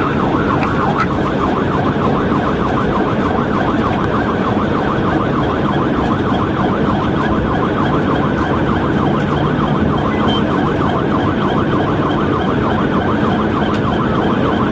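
Police car siren in a fast, rapidly repeating yelp. It runs over steady engine and road noise from the pursuing cruiser at highway speed.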